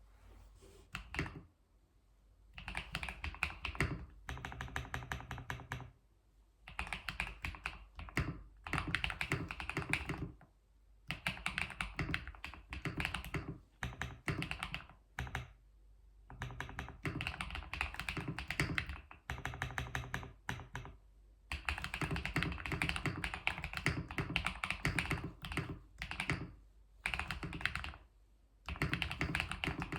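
Computer keyboard being typed on: runs of rapid key clacks lasting a few seconds each, broken by short pauses.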